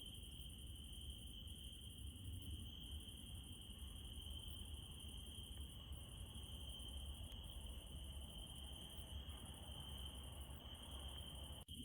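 Crickets trilling in a steady chorus, with a low rumble underneath. The sound drops out for an instant near the end.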